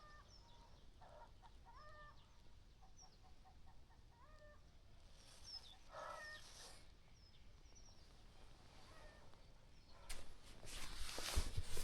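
Faint bird calls: scattered short chirps and brief upward-gliding notes. A louder rustling noise comes in near the end.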